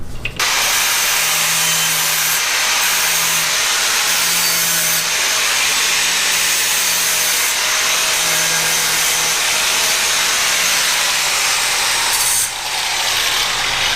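Power sander running steadily against a boat outdrive's cast aluminum lower unit, sanding the paint off to prep the surface for welding. It starts about half a second in, and there is a brief dip near the end.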